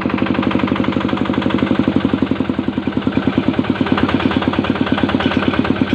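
Yanmar diesel engine running at idle, with an even, rapid firing beat.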